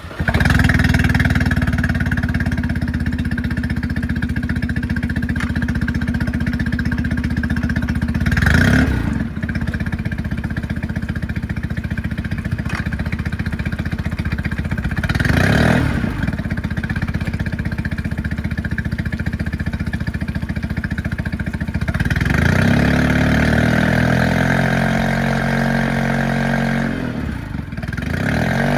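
Suzuki four-stroke outboard motor running under way. There are brief louder whooshes twice in the first half, and the engine note shifts about two-thirds of the way through.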